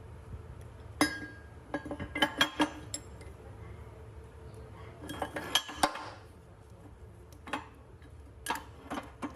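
Metal parts of a hand pallet truck clinking and knocking together as they are handled: about a dozen short, ringing taps in irregular clusters.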